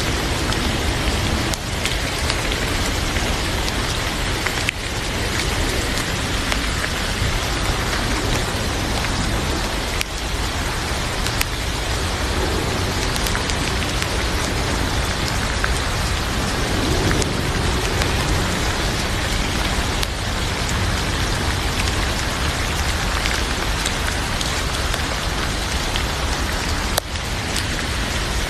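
Heavy rain pouring steadily, with a few sharp crackles from a wood fire in a fireplace.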